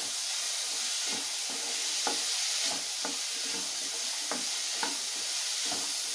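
Onions, black-eyed peas and drumstick pieces sizzling in oil in a kadai while a wooden spatula stirs them, scraping and tapping the pan about twice a second.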